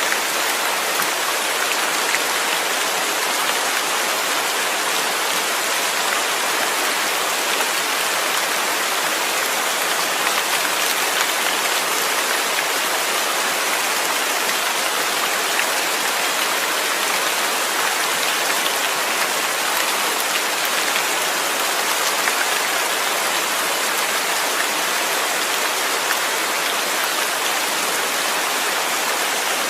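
Steady rain, a dense even hiss of drops that holds constant, with no thunder or single loud impacts.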